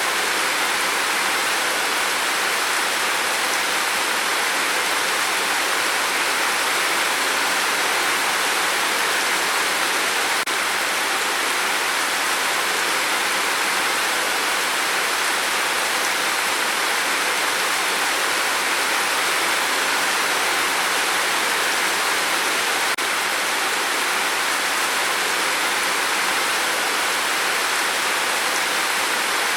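Steady heavy rain on a tin roof, an even hiss with no single drops or gusts standing out.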